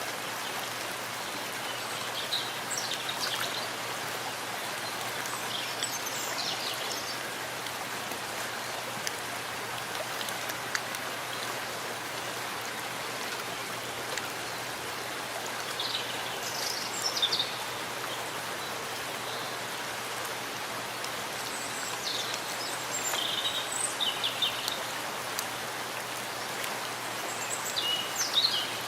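Steady rain falling in a forest, an even hiss of drops. Brief high chirps come through now and then.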